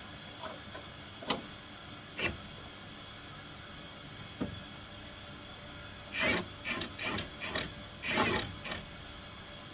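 Steady background hiss with three sharp clicks spaced out over the first few seconds, then a run of clattering knocks and scrapes from about six to nine seconds in.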